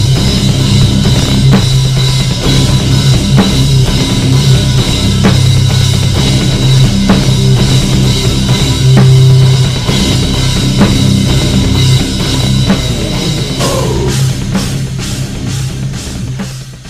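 Loud heavy rock music with a drum kit, fading down near the end.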